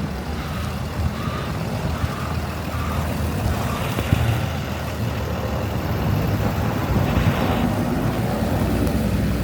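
Heavy vehicle engine running on a snowy street: a steady low rumble that slowly grows louder.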